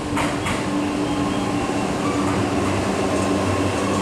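Electric train running: a steady rumble with a constant motor hum, and two brief clicks just after the start.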